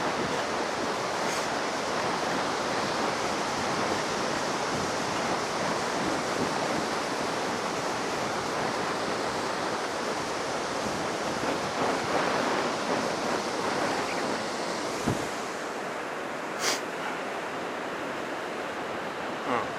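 Ocean surf breaking on a sandy beach, a steady rushing wash from high waves raised by a passing typhoon. A few brief sharp ticks come in the last few seconds.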